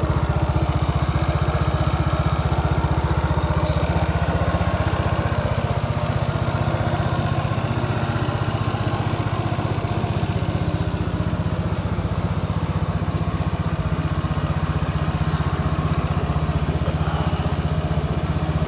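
Yamaha BWS 125 scooter's single-cylinder four-stroke engine idling steadily through an aftermarket exhaust.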